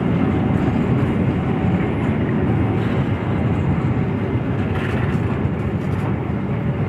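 A train running: a continuous, steady noise, heaviest in the low end, with no let-up.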